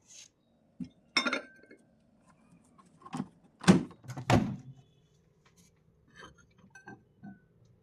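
Kitchenware being handled: a few separate clinks and knocks, the loudest about three and a half to four and a half seconds in, followed by a few fainter clicks.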